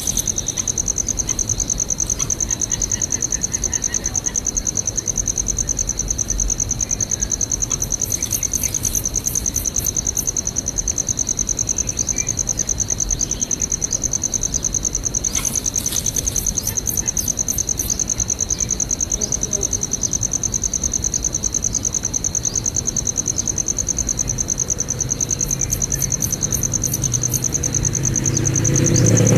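Insects trilling: a steady, high-pitched, rapidly pulsing insect chorus, with short runs of sharper high clicking every few seconds.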